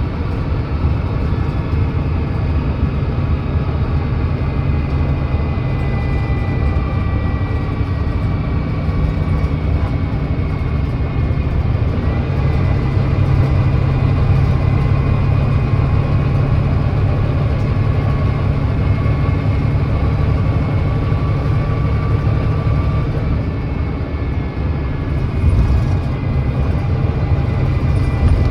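Volvo B9TL double-decker bus's 9.3-litre Volvo D9B diesel engine running steadily at road speed, with thin whining tones above the engine note. Partway through, the ZF Ecolife automatic gearbox shifts down from sixth to fifth and back up to sixth, and the engine note grows heavier.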